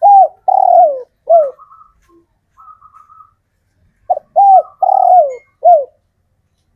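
Male spotted dove cooing its advertising call, used to attract females: a four-note phrase (two short coos, a long falling coo, a short one), a faint higher twitter, then the same phrase again about four seconds in.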